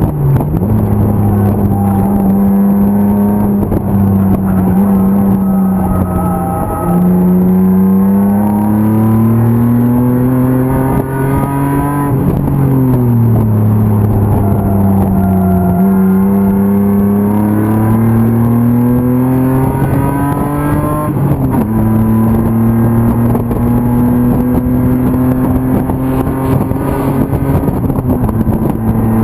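BMW E36 325's M50 straight-six race engine running hard, its note climbing with the revs, falling away for several seconds, then climbing again. About three-quarters of the way through the pitch jumps up sharply, then holds nearly steady.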